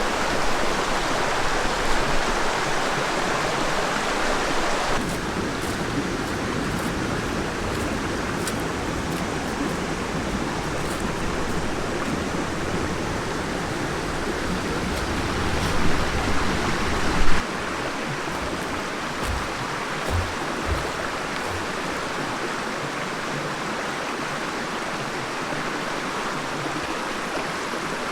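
Steady rushing of a river's flowing water, its tone shifting abruptly a couple of times, with a few brief knocks about two-thirds of the way in.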